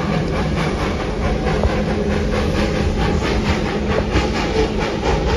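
Steam passenger train running, heard from inside an open-windowed wooden coach: a steady rumble and rattle of the wheels on the track, with a fine regular clatter.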